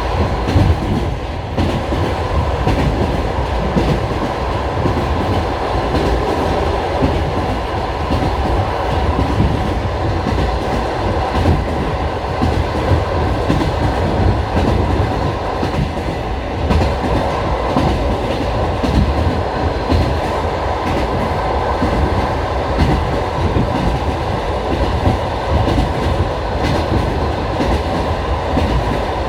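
Passenger train carriage running along the track, heard from inside the carriage: a steady rumble with the wheels clattering over the rail joints.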